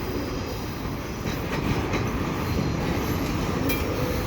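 Loaded double-stack container cars rolling slowly in a shoving (back-up) move: a steady rumble of wheels on rail, with a few sharp clicks.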